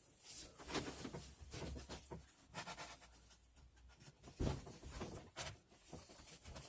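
Faint, irregular scraping and rubbing with scattered light taps, like something being worked or handled by hand, the strongest taps about four and a half and five and a half seconds in.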